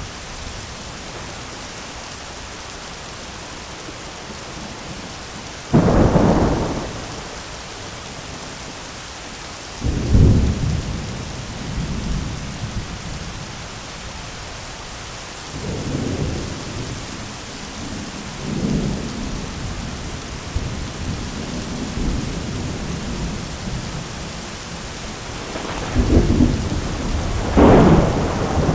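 Thunderstorm: steady rain with thunder. A sudden sharp thunderclap comes about six seconds in and another near ten seconds, followed by lower rolling rumbles, then two loud claps close together near the end.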